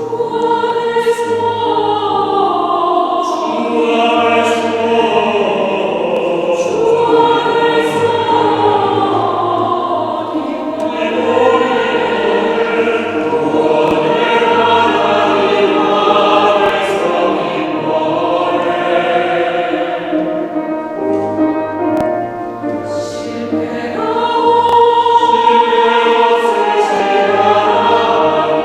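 Church choir singing an anthem in sustained, flowing phrases, with low accompanying notes underneath.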